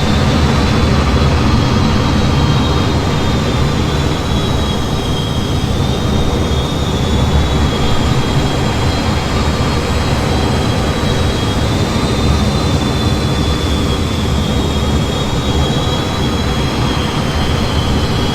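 F-15 fighter jet in flight, a steady loud rumble of engine and airflow. Over it runs a high whine that drifts slowly up and down in pitch.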